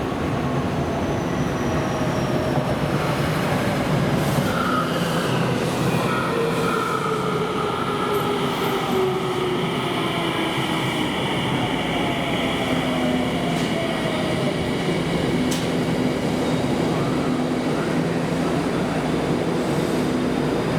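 Tsukuba Express electric train running on the rails from inside the carriage, with a steady rumble. Its motor whine falls in pitch over several seconds as the train slows, then settles into a steady hum.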